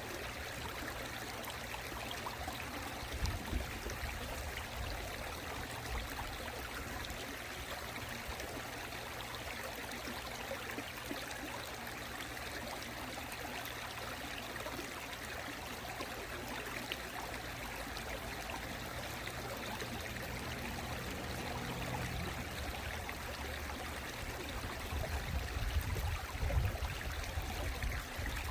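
Mountain stream flowing steadily, a continuous rush of water. A few low rumbles rise under it around three seconds in and again near the end.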